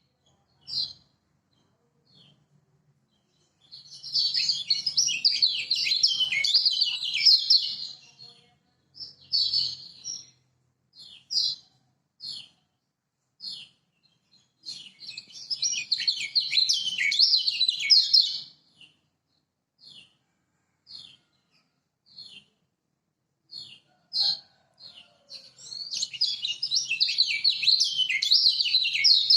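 Kecial kuning white-eye singing: three long, rapid twittering song phrases, separated by single short chirps about once a second.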